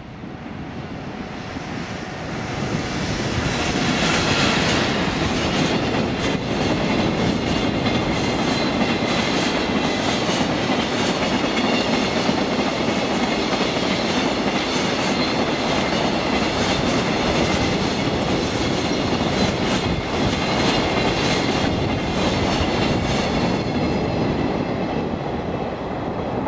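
A freight train hauled by an ED76 electric locomotive passing at speed. It builds over the first few seconds, then holds a long, steady run of wheels clattering over rail joints as the train of container wagons goes by, easing a little near the end.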